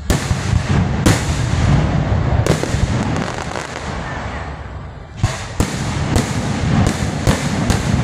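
Aerial fireworks shells bursting: three sharp bangs spaced a second or more apart, then a quick run of six bangs near the end, over a continuous low rumble.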